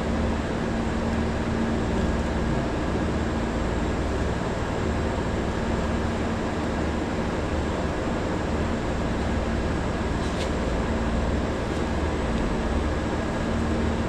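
Steady hum of running machinery, a low rumble with one constant tone, and a faint click about ten seconds in.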